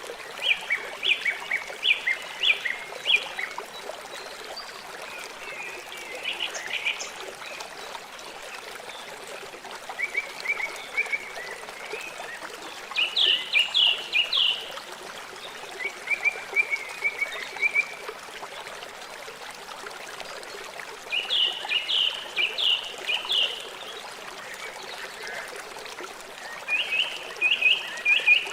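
River water flowing steadily, with a songbird singing over it: short phrases of quick, high, repeated notes every few seconds, about seven times.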